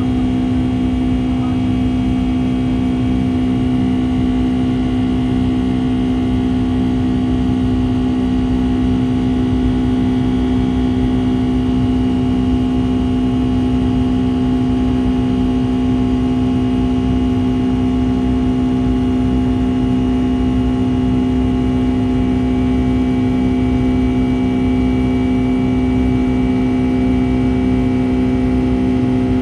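Steady cabin drone of a Boeing 757-300 with its engines running, heard from a passenger seat. A constant engine hum with a strong low tone sits over a rumble of airflow and does not change.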